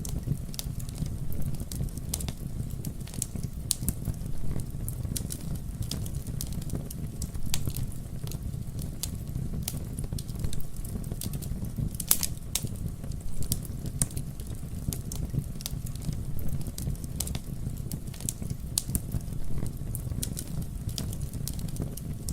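Wood fire burning with a steady low rumble and irregular sharp crackles and pops, one louder pop about halfway through.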